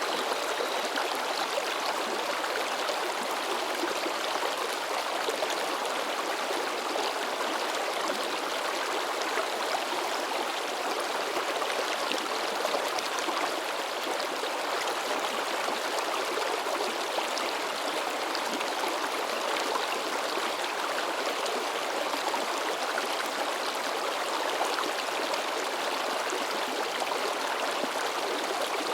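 Mountain stream babbling and splashing over rocks, a steady, unchanging rush of water.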